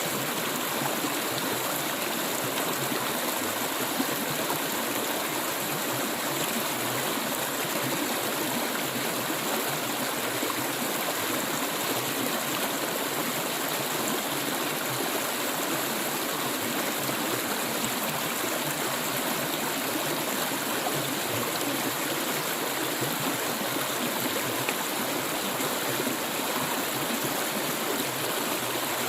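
Clear water flowing, a steady, even sound that holds without a break.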